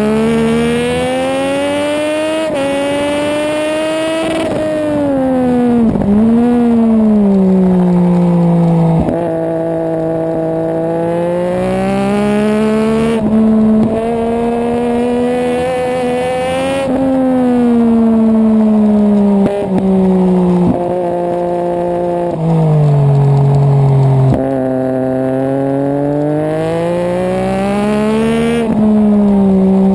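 Racing motorcycle engine heard from on board, revving hard through the gears. Its pitch climbs under acceleration and drops sharply at each gear change, and it falls away as the bike slows into corners, several times over.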